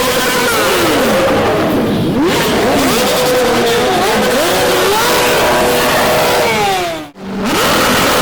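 Several car engines revving, their pitches rising and falling and overlapping one another. The sound drops out briefly about seven seconds in.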